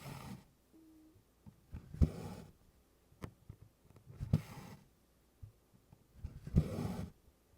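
Needle punched through 24-count Congress cloth and DMC floss drawn through after it: a sharp click, then a soft swish of thread, about every two seconds, four times, with faint ticks of needle against canvas between.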